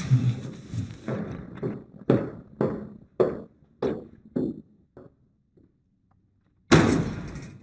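Footsteps on a hard floor walking away, about two a second and growing fainter, then a door slamming shut near the end.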